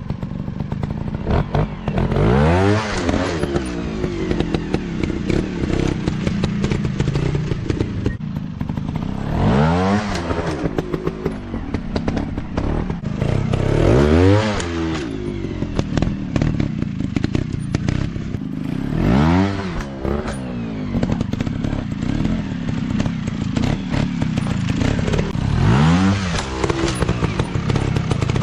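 Off-road dirt bike engines running, with about five sharp throttle blips where the revs rise and fall quickly, amid clattering and knocking.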